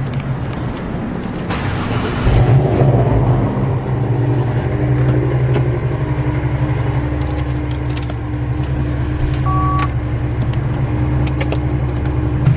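Car engine running at a steady idle with an even low hum. It becomes louder and settles about two seconds in. A short two-tone electronic beep sounds partway through.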